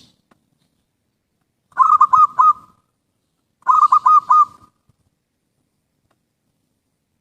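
Zebra dove cooing: two phrases of about four quick, rolling coos each, about two seconds apart.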